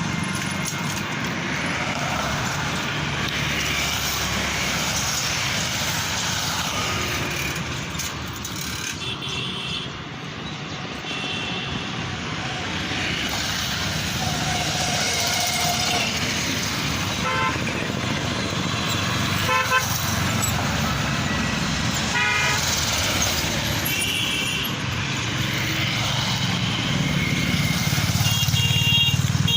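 Steady road traffic with vehicle horns honking several times.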